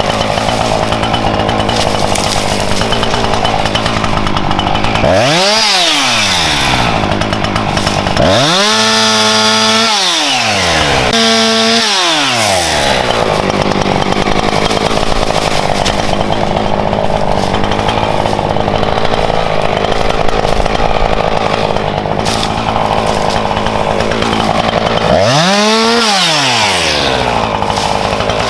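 Husqvarna chainsaw cutting firewood, the engine running under load and four times revving up and falling back between cuts. The chain is slightly too loose, which the sawyer says he could hear while cutting.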